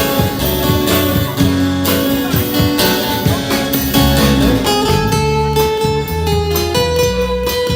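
Busker band playing an instrumental break between sung lines: guitar strumming over bass and a beat, with a lead melody holding long notes in the second half.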